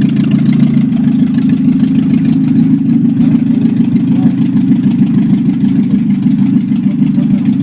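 ZMZ-406 16-valve inline-four engine, fitted in a VAZ 2107, running steadily at idle.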